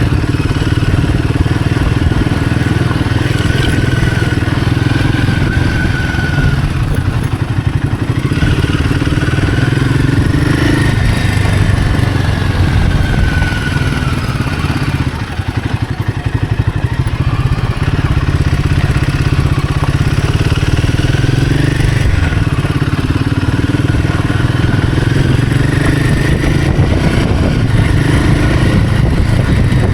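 Royal Enfield Himalayan 450's single-cylinder engine and exhaust under way, revs rising and falling with the throttle and briefly easing off about halfway through.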